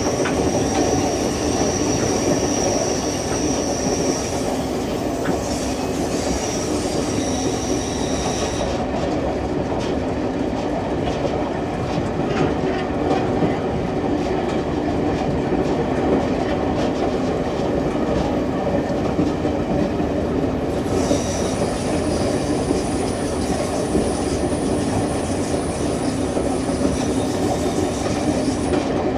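Passenger train rolling along the track, with steady wheel-on-rail rumble. The wheels squeal in thin high tones during the first eight seconds or so and again over the last eight, with no squeal in between.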